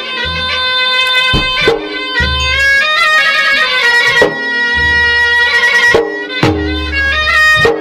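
Traditional Maros gendang ensemble: a nasal double-reed pui-pui plays an unbroken, note-stepping melody over beaten gendang drums, with sharp strokes about every second or two and deep booming stretches beneath.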